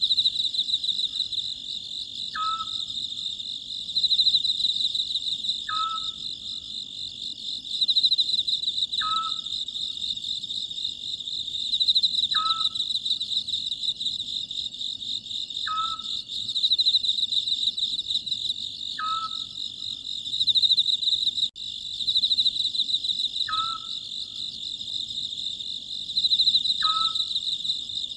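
Oriental scops owl calling, a short note about every three seconds, over a steady, pulsing chorus of crickets.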